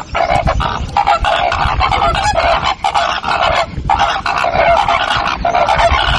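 A flock of birds calling loudly, many short calls overlapping in a continuous chorus with brief lulls.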